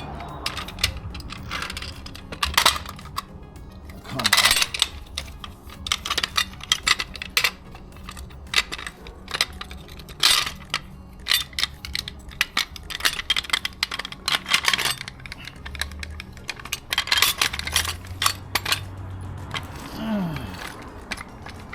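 Irregular metallic clicks, taps and clanks of a car jack being handled and adjusted, with clusters of quicker clicking.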